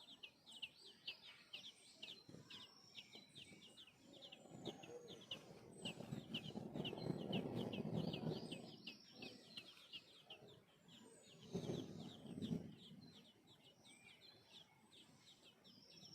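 Young birds' quick, high begging chirps repeated about four a second, as a parent bird feeds them. A louder, low noisy sound swells up through the middle and comes again briefly a few seconds later, loudest near the end of that second swell.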